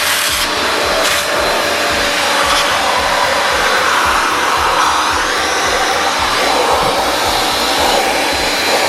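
Eureka EasyClean corded hand-held vacuum running steadily as it picks up dirt, its motor and airflow making a constant rushing noise.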